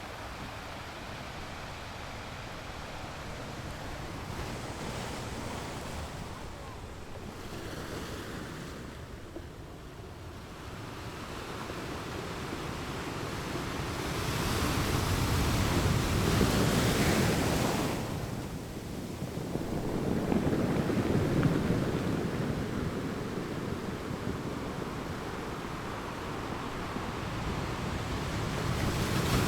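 Ocean waves breaking and washing up a beach, a continuous rushing surf that swells and ebbs. The biggest waves come about halfway through and again shortly after, with another building near the end.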